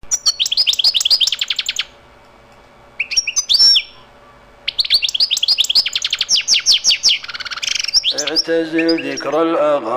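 Songbird singing in three phrases of rapid trills made of quick, repeated, falling chirps, with short pauses between. About eight seconds in, a voice begins a chanted melody.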